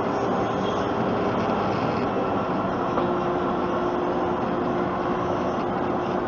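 Steady road and engine noise inside a moving pickup truck's cab at highway speed, with a steady hum.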